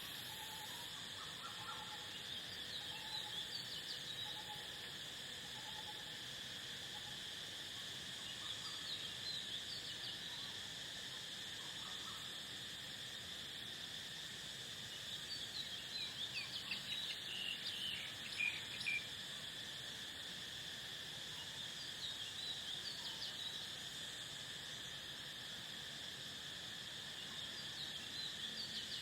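Crickets trilling in a steady, unbroken high-pitched chorus, with birds chirping now and then over it. The densest, loudest run of bird chirps comes about halfway through.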